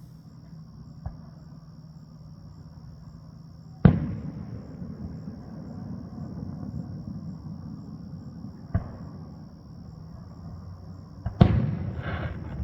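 Aerial fireworks shells bursting in the distance: a loud boom about four seconds in with a long rolling tail, another near nine seconds, then two quick bangs near the end followed by a short crackle.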